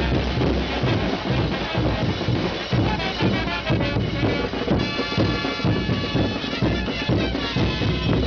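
Live traditional procession music: drums keeping a steady beat under shrill wind instruments, with a long held wind note about halfway through.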